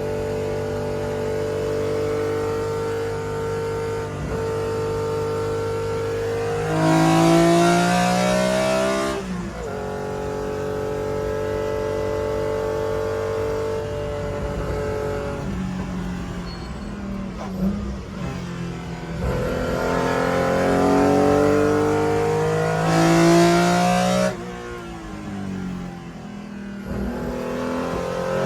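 BMW M1 race car's straight-six engine, heard from inside the car. It holds steady revs, then climbs hard to a loud peak about seven seconds in before dropping back. It climbs and drops again from about twenty seconds in.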